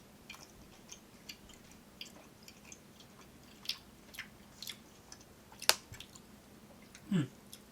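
A person chewing a soft, gummy chocolate mochi daifuku, with scattered wet mouth clicks and one sharper click a little before the end. Near the end comes a brief falling "mm".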